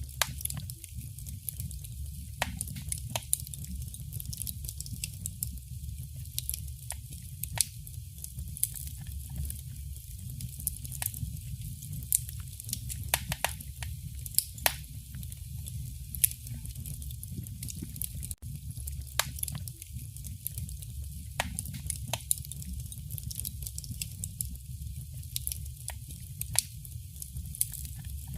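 Fire burning in a fireplace: irregular sharp crackles and pops, several a second at uneven spacing, over a steady low rumble.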